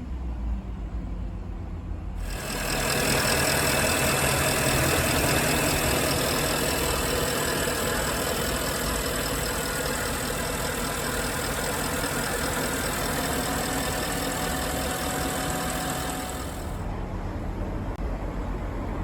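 Porsche Panamera 4S's 4.8-litre V8 idling steadily. From about two seconds in until near the end, a louder steady hiss with high whining tones sits over the engine, then cuts back to the idle alone.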